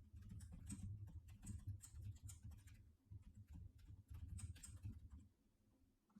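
Faint, irregular clicking and tapping over a low rumble, dying away about five seconds in.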